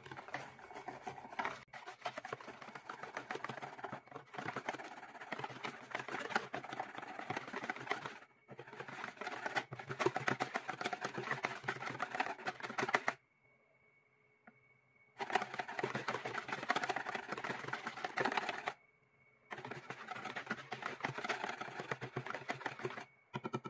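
Wire whisk beating thin batter in a plastic mixing bowl: fast, continuous rattling strokes. The strokes stop twice, for about two seconds a little past the middle and briefly about four-fifths of the way through.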